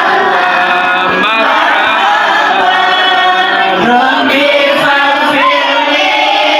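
A group of voices singing a sholawat together, a devotional song praising the Prophet Muhammad, in long held and sliding notes.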